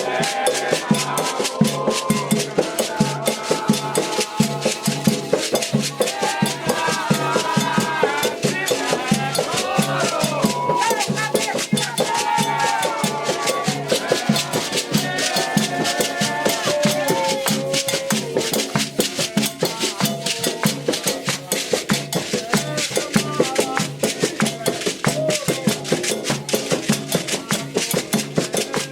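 Candomblé ritual music: drums and a shaken rattle keep a fast, steady rhythm, with voices singing a chant through the middle.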